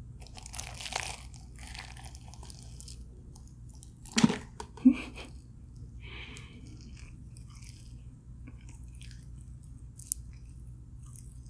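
A person biting into and chewing crispy-skinned fried chicken close to the microphone, with small crunches and crackles from the skin. Two louder moments come about four and five seconds in.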